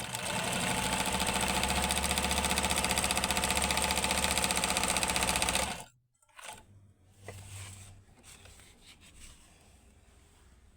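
Elgin zigzag sewing machine stitching at speed, a loud, rapid, steady clatter of the needle mechanism, which stops abruptly about six seconds in. A few faint clicks and handling sounds follow.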